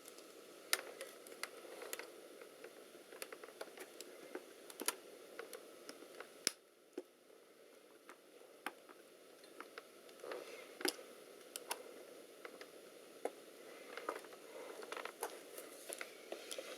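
Small flathead screwdriver clicking and scraping against the laptop's plastic case and keyboard tabs while prying at the keyboard: scattered sharp clicks and taps, one louder snap about six seconds in, over a faint hiss.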